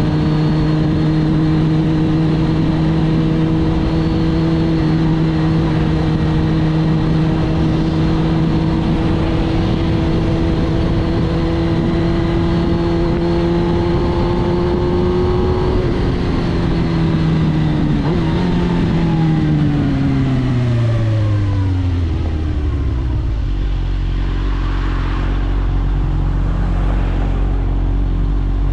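2006 Suzuki GSX-R1000 K6's inline-four engine through a full Akrapovič titanium exhaust, holding steady revs that slowly climb. About sixteen seconds in the pitch starts falling as the throttle is rolled off, and it settles to a low idle over the last several seconds.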